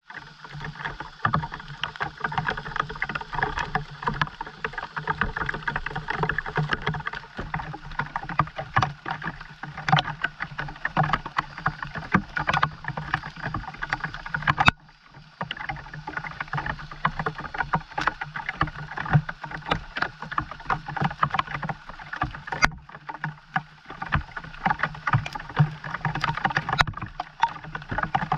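Rain falling, a dense irregular patter of drops, briefly breaking off about halfway through.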